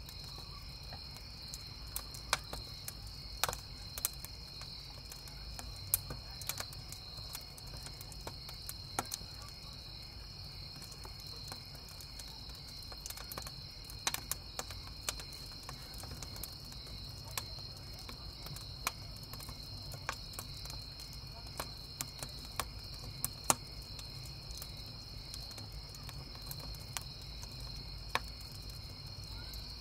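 Wood campfire crackling with frequent sharp pops and snaps, over the steady chirping of crickets.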